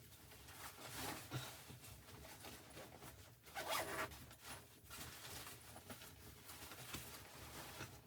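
Quiet rustling and handling of clothing or gear, with a louder rasping stroke about three and a half seconds in.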